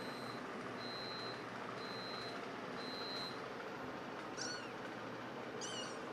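A cat meowing twice, two short calls about a second and a half apart in the second half. Before them a vehicle's reversing alarm beeps steadily, about once a second.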